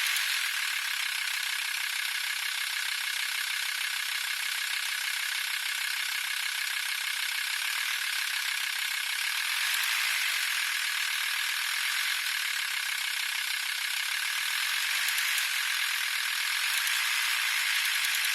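VW T4 2.5 TDI five-cylinder diesel engine running, with a steady, fast rattle from the serpentine belt area. The rattle shows up only around 1050–1100 rpm, and the owner suspects the belt tensioner pulley.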